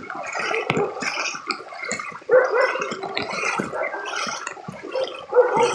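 Floodwater sloshing and gurgling around a pickup truck as it drives through a flooded street, in uneven surges with two stronger splashes, about two seconds in and near the end.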